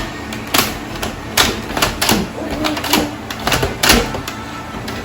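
Nerf Elite toy blaster's plastic mechanism clacking: a string of sharp, irregular clicks as the blaster is worked by hand, primed and fired.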